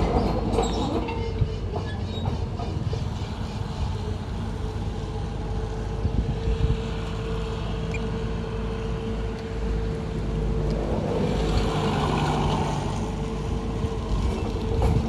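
Heavy diesel construction machinery running steadily, with a held whine and metallic clatter and squeal that swell twice.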